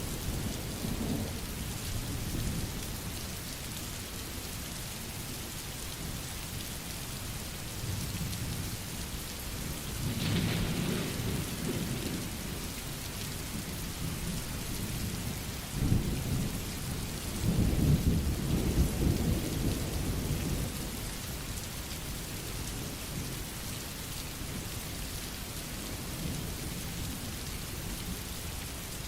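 Steady rain falling, with rolls of thunder: a short rumble about a third of the way in and a longer, louder one just past the middle.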